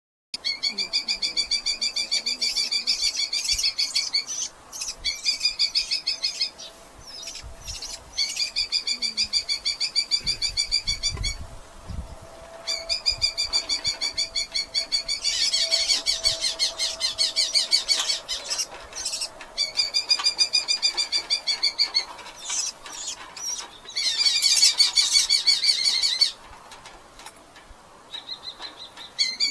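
Red-footed falcons calling in bouts of a couple of seconds, each a fast run of sharp, repeated high notes, with short gaps between the bouts. A few low knocks and rumbles come about a third of the way in.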